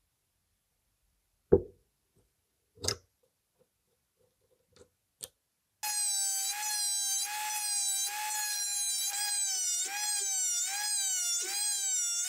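A few separate knocks, then a high-pitched power-tool motor whine that starts abruptly about halfway through, its pitch wavering slightly, and cuts off suddenly at the end.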